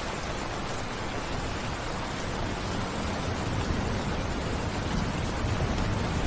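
Heavy rain falling in a steady hiss, with a low rumble building in the second half.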